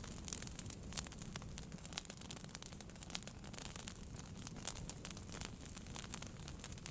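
Wood fire burning in a fireplace: a low steady rumble of the flames with frequent irregular crackles and small pops, one louder pop about a second in.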